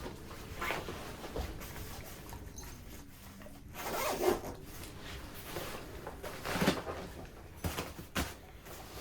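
A sleeping bag zipper pulled in several rasping strokes, with fabric rustling, as someone closes themselves into the bag.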